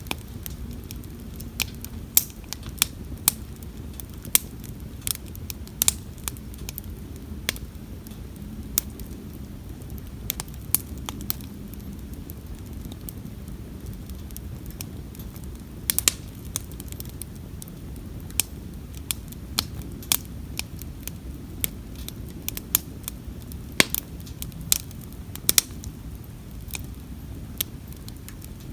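Wood campfire crackling: irregular sharp pops and snaps, a few a second, over a steady low rumble of the flames.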